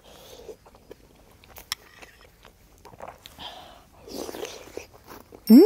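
Close-up eating sounds of a person chewing rice cakes and ramen noodles, with small wet mouth clicks. Near the end a short, loud pitched sound rises and then falls.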